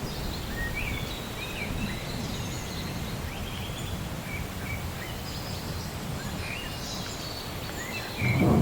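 Rainy-day nature ambience: a steady hiss of rain with birds chirping here and there. Near the end a low thunder rumble swells in suddenly and becomes the loudest sound.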